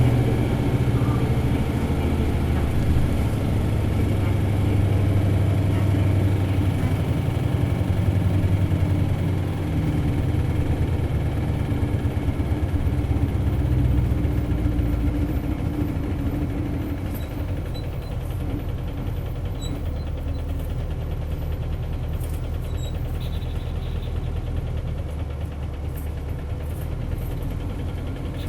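Isuzu Cubic bus's 8PE1-S V8 diesel engine running as the bus drives, heard from inside the cabin. It pulls hard in the first half, then settles lower and quieter from about halfway through.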